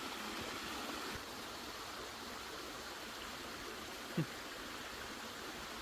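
Steady rush of a small waterfall heard from a distance. A brief falling-pitched sound comes about four seconds in.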